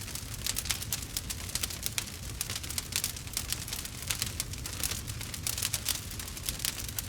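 Wood fire crackling: many sharp pops and snaps, several a second and uneven, over a low steady rumble.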